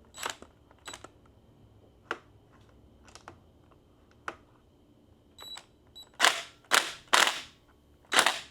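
A few sharp tool clicks about a second apart. From about six seconds in come five short, loud bursts of a power tool, typical of a cordless impact driver snugging a bolt on a motorcycle in quick pulses.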